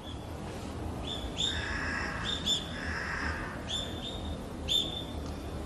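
Birds chirping: a handful of short, high, slightly falling chirps scattered over a steady forest background.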